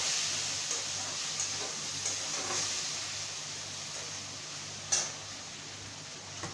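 Chicken curry sizzling in a metal kadai on a gas stove: a steady frying hiss with small crackles as the chicken cooks down in its spiced oil. A single sharp clink about five seconds in.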